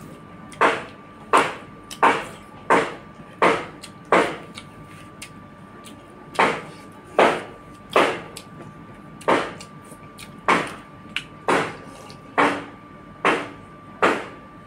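Close-up wet chewing smacks of a person eating rice and curry with his mouth open, about one every 0.7 seconds, pausing briefly around five seconds in.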